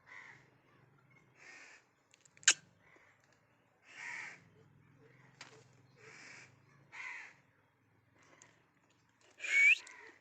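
Ringneck parakeet giving soft, rough calls about once a second, with a sharp click about two and a half seconds in and a louder squawk with a rising tone near the end.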